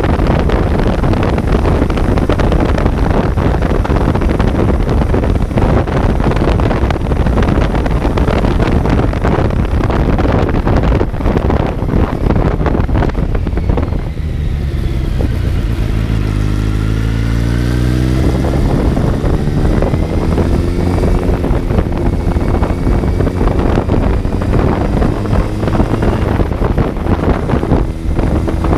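Kawasaki Z900's inline-four engine heard onboard while riding, with heavy wind noise on the microphone. About halfway through the revs drop as the bike slows, then climb again as it pulls away and settle at a steady pace.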